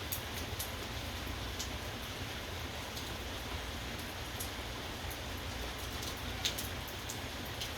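Steady rain falling, with scattered individual drops tapping close by; one sharper tap comes about six and a half seconds in.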